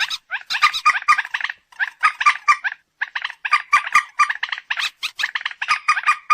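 Recorded paddy-field bird calls: rapid runs of short, harsh repeated notes, several a second, broken by brief pauses.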